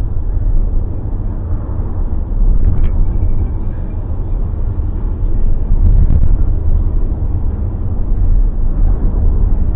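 Car on the move, heard from inside the cabin: a steady low rumble of road and engine noise, with a small click about three seconds in.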